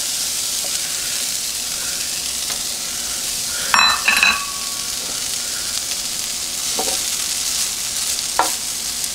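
Frozen shredded hash browns sizzling steadily in hot oil on a Farberware nonstick electric griddle. A ringing metal clink comes about four seconds in, and a spatula scrapes briefly across the griddle twice near the end.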